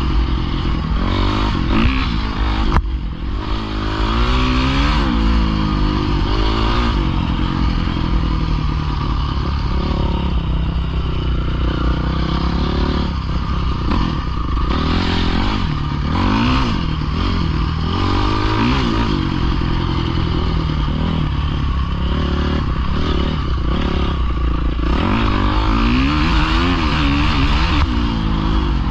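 Pit bike engine revving up and down as it is ridden, its pitch rising and falling every few seconds with gear changes and throttle.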